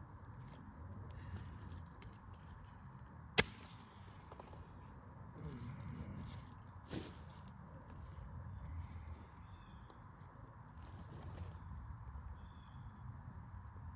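A steady, high-pitched chorus of chirping insects. A sharp click comes about three and a half seconds in, and a fainter one about seven seconds in.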